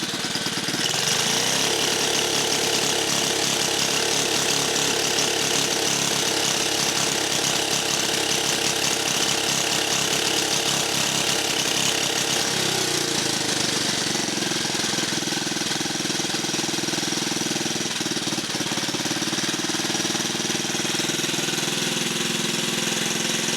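1950 REO small gasoline engine running on its own just after being revived, with a rapid, even pounding of firing strokes. It picks up speed about a second in and drops back to a slower speed about halfway through.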